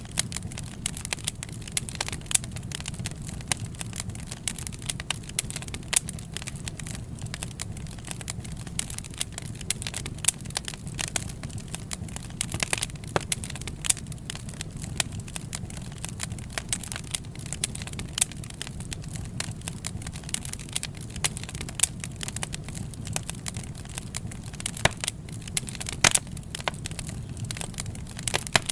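Wood fire crackling and popping, with many irregular sharp snaps over a steady low rumble of burning.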